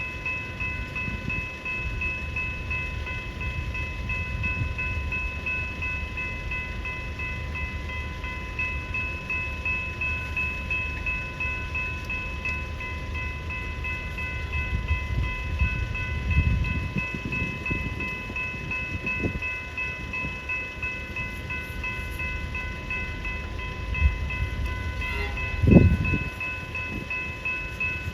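Level crossing warning bells ringing steadily in rapid strokes, over the low rumble of a train passing through the crossing. A single louder low thud comes near the end.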